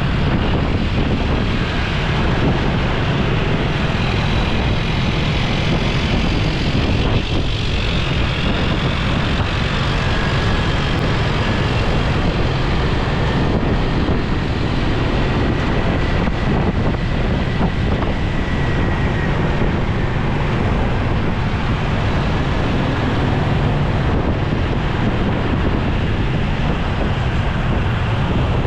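A motorcycle riding through city traffic: steady engine and road rumble, with wind buffeting the microphone.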